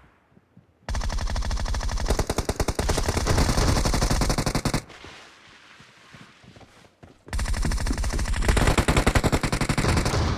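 Automatic gunfire in a shooter video game: a long burst of rapid shots starting about a second in and lasting about four seconds, then a quieter pause, then another long burst near the end.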